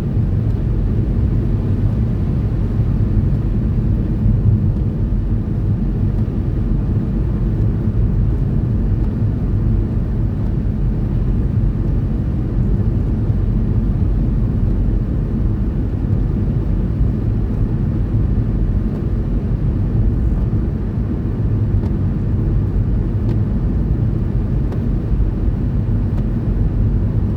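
Steady low rumble of a car's engine and tyres heard inside the cabin while driving at about 40 miles an hour.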